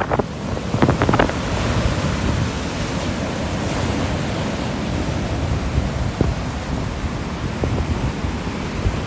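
Ocean surf rolling and washing on the beach, a steady rushing noise, with wind buffeting the microphone.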